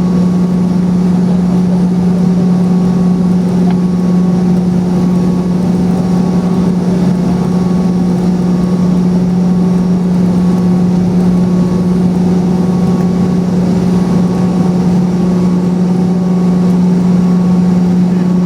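Boeing 717's rear-mounted Rolls-Royce BR715 turbofan engines heard from inside the cabin: a loud, steady drone with a strong low hum that does not change.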